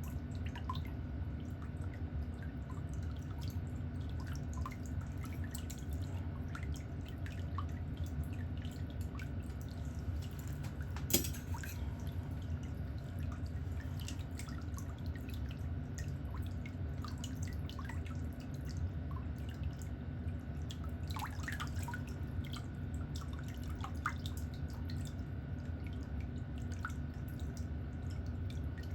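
Steady low hum with small, irregular clicks and ticks scattered throughout, and one sharper click about eleven seconds in.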